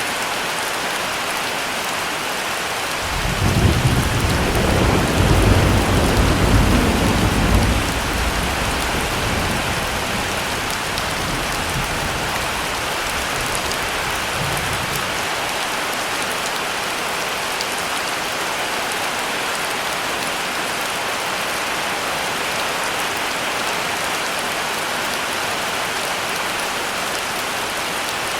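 Heavy rain falling steadily, with a roll of thunder about three seconds in that rumbles loudest for several seconds and then fades away.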